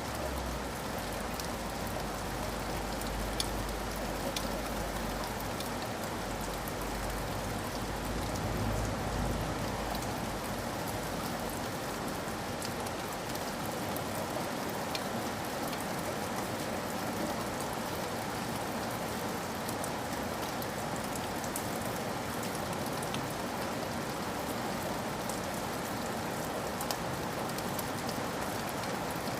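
Steady rain falling, an even hiss with scattered sharp drop ticks. A low rumble underneath fades out about halfway through.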